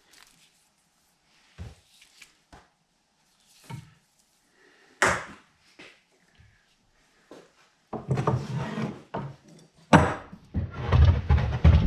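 Scattered knocks and clunks of drill press parts being handled and fitted together, one louder knock about five seconds in, then a continuous rough scraping and rattling from about eight seconds in as a part is worked into place.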